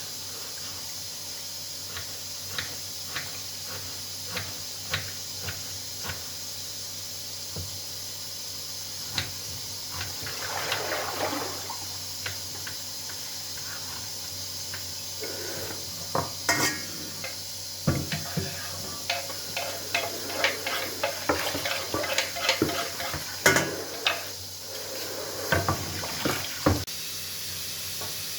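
Kitchen work over a steady hiss: scattered clinks and knocks of dishes and utensils, a short run of water about ten seconds in, then busier clattering of dishes over the last dozen seconds.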